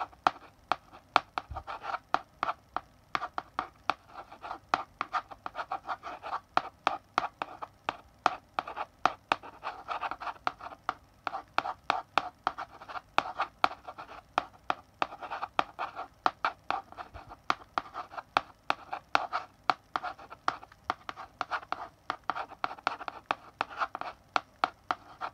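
Chalk writing on a blackboard: a continuous run of quick taps and short scratching strokes, several a second, as letters are written.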